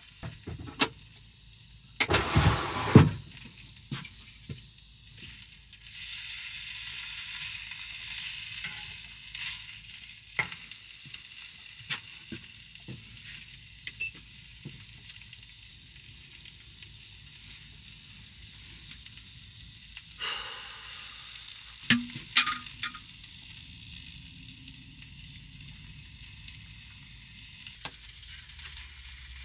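Food sizzling in a frying pan while a utensil stirs and scrapes it, with sharp clatters against the pan about two seconds in and again around twenty seconds in.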